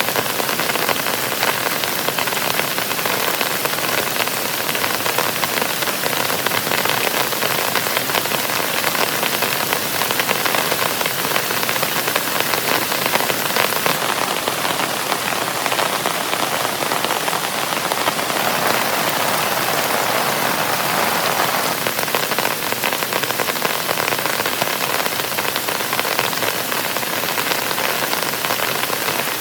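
Heavy rain falling steadily, a dense, even hiss of countless drops that neither builds nor eases.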